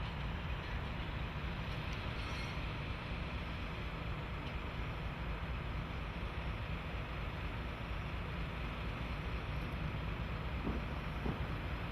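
JNR DE10 diesel locomotive running, a steady low rumble with a few light clicks near the end.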